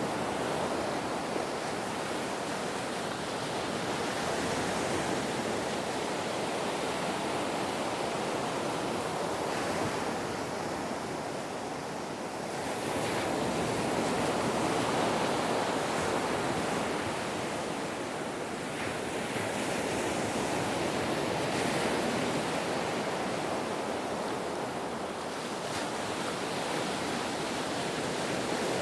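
Ocean surf: a steady wash of breaking waves that swells and ebbs every several seconds.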